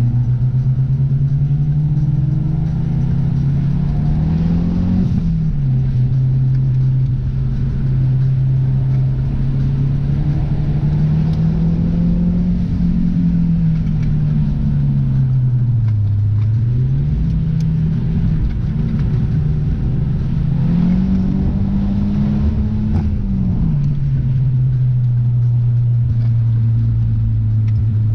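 Car engine and exhaust droning while cruising, the pitch rising and falling a few times as the driver works the throttle, over steady road noise.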